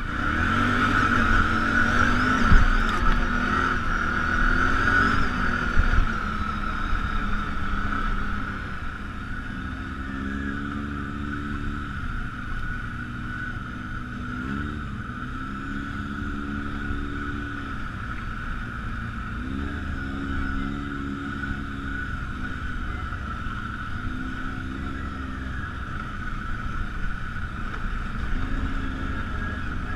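ATV engine running on a trail ride, over a steady high whine. Its revs rise and fall in repeated surges as the throttle is opened and eased off. The first several seconds are louder and rougher, with a couple of knocks.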